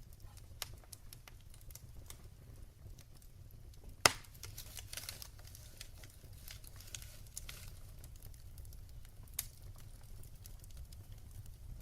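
Wood fire crackling in a fireplace: scattered small crackles over a low steady rumble, with one sharp loud pop about four seconds in and a smaller pop later.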